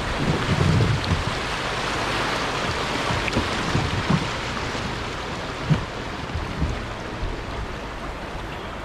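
Creek water rushing steadily, with wind buffeting the microphone in the first second and a few soft knocks along the way.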